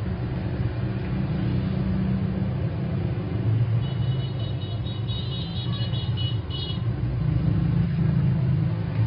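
Steady low rumble of road traffic, with a high pulsing tone from about four seconds in that lasts some three seconds.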